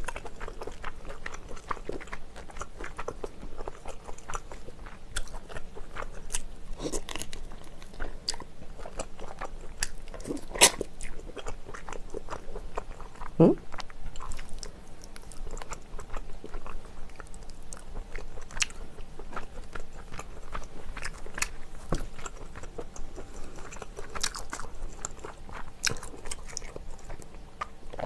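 Close-miked chewing of a mouthful of spicy braised chicken, with wet mouth smacks and sharp clicks scattered throughout.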